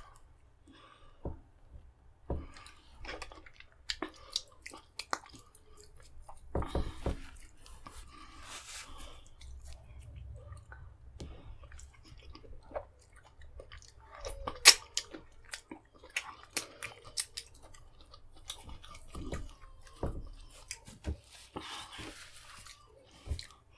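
Close-miked mouth sounds of a man eating fufu with vegetable soup: wet chewing and lip smacks with scattered sharp clicks, the loudest about halfway through.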